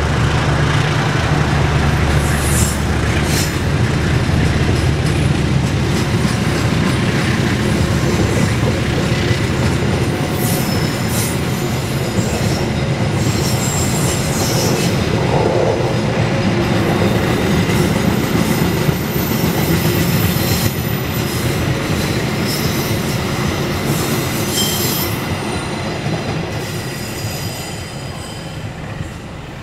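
Train passing close by: a loud, steady rumble of wheels on the rails, with brief high wheel squeals now and then. A low hum sounds in the first few seconds, and the rumble eases off near the end.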